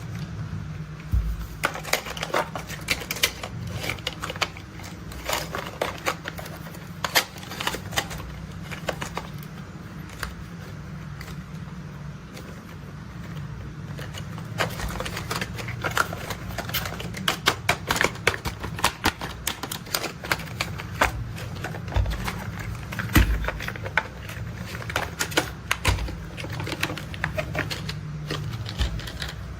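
Plastic toy construction vehicles being handled and tapped: a quick, irregular run of sharp clicks and taps over a steady low hum.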